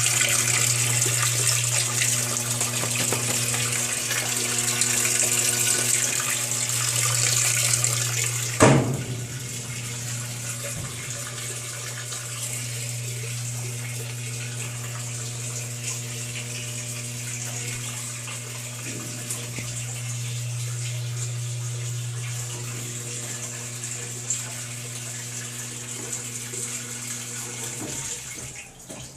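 Mabe Aqua washing machine filling: water pouring into the tub over a steady low hum. A single sharp knock comes about a third of the way through, after which the water sound is quieter, and the hum stops shortly before the end.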